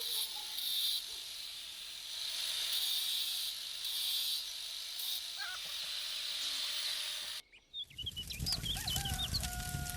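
Outdoor ambience with a steady high hiss that pulses now and then. After a sudden break about seven and a half seconds in, birds call in short notes and then one long held call near the end, over a low rumbling noise.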